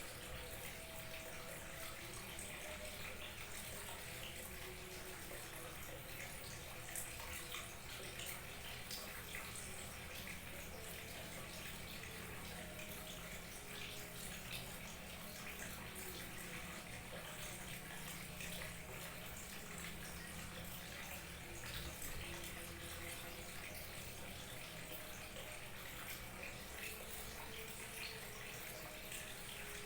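Small waterfall trickling and splashing steadily, an even running-water sound with fine splashy detail throughout.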